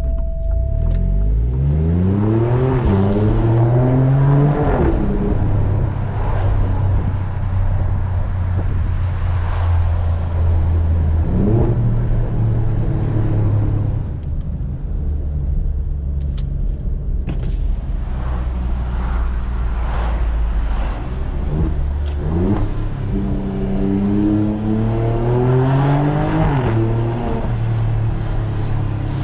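Alfa Romeo Stelvio Quadrifoglio's twin-turbo V6 accelerating hard through the gears. The engine note climbs and drops at an upshift about four and a half seconds in, holds steady, eases off past the middle, then climbs again to another upshift near the end.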